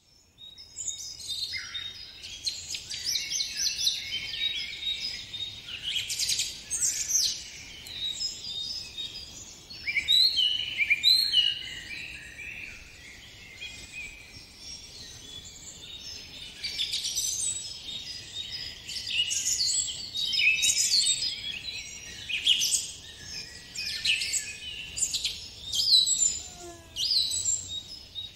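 Songbirds chirping and singing in a continuous chorus of quick, high notes and short whistled glides.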